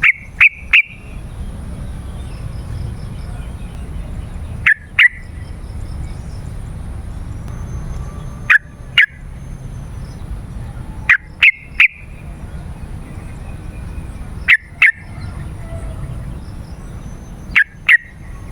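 Yellow-vented bulbul (trucukan) calling in short, loud bursts of two or three notes, repeated about every three to four seconds.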